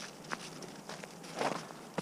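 A few soft footsteps, spaced out and irregular.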